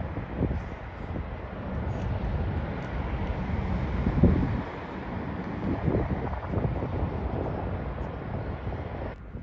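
Jet airliner engines rushing as the plane comes in to land, with gusts of wind buffeting the microphone in low thumps. The sound changes abruptly near the end.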